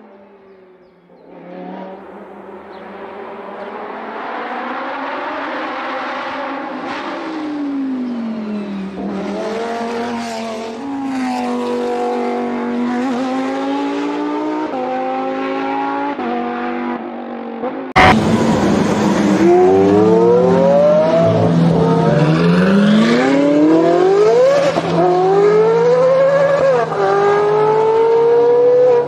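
Two clips of supercar engines at high revs. First a car comes up a winding road, its engine note falling and rising as it brakes and shifts through the gears. After a sudden cut about 18 seconds in comes a louder flat-out acceleration, the pitch climbing and dropping back at each of several upshifts.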